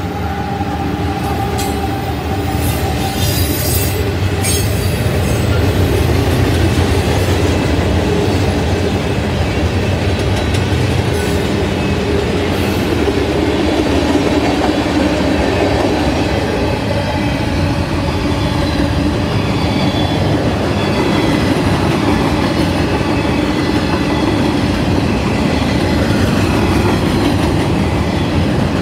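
Freight train passing close by: diesel locomotives rumble past at first, then the freight cars roll by, their wheels clattering steadily over the rails with some faint wheel squeal.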